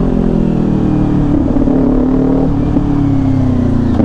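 Kawasaki Ninja 400 parallel-twin engine through an SC Project aftermarket exhaust, running under way on the road. Its note eases down and holds fairly even, with a brief break about two and a half seconds in.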